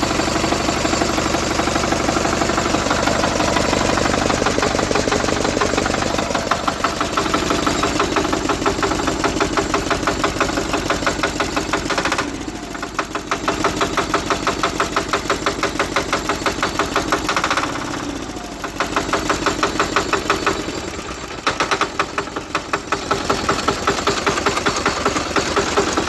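Cub Cadet HDS turbo diesel engine running just after a cold start, with its steady diesel knock. Air has just been bled from its fuel line. The sound dips briefly a few times.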